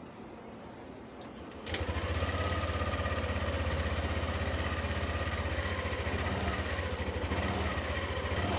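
Yamaha NMAX scooter's single-cylinder engine starting about two seconds in, then idling steadily.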